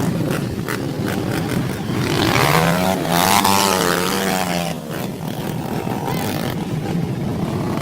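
Dirt bike engine running, rising in pitch and then easing back down between about two and five seconds in, over scattered knocks and rattles.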